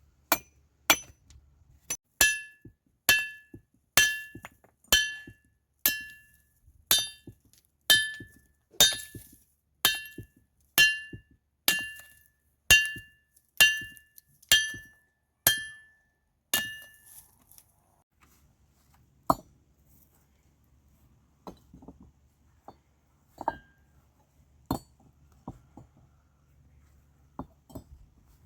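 Repeated ringing metallic strikes, about one a second for some seventeen seconds, each blow leaving a bright ring. They are followed by a few quieter, irregular knocks.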